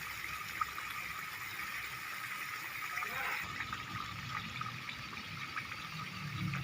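Balado chili sauce and eggs cooking in a pan on the stove: a steady sizzling hiss with small crackles.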